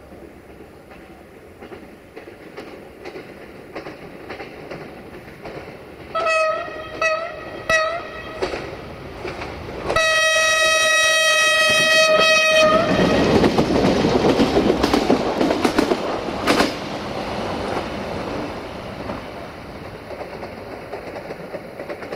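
Siemens Desiro VT642 diesel multiple unit sounding its horn: three short toots, then one long blast of about two and a half seconds. The train then passes close by, its wheels clacking over rail joints, and the rumble slowly fades toward the end.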